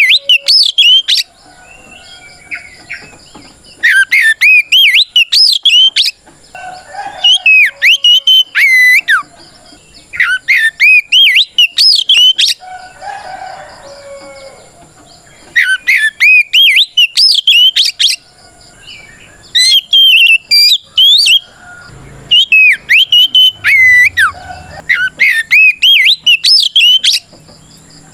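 Oriental magpie-robin singing loud, rapid phrases of whistled notes that slide up and down, in bursts of a second or two separated by short pauses. This is the bold challenge song the bird uses to call out a rival.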